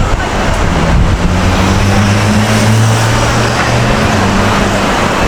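City street traffic, with a vehicle engine running close by as a steady low hum from about a second in.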